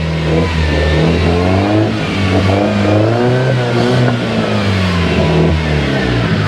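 Engine of a motorized outrigger boat running steadily with a low drone, its pitch wavering gently up and down.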